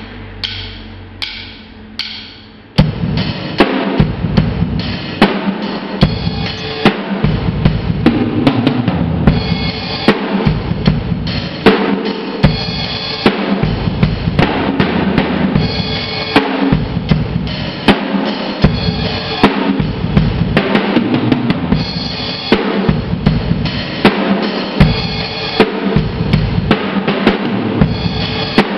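Drum kit played: a few single strokes, then about three seconds in a loud, steady beat of bass drum, snare and cymbals that keeps going.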